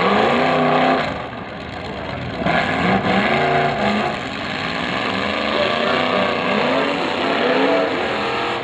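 Several demolition derby cars' engines revving hard at once, their pitch rising and falling over and over as the cars push against each other in the mud.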